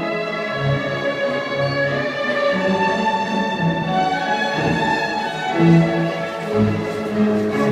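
Orchestral music from a recording, strings carrying a slow melody in sustained notes.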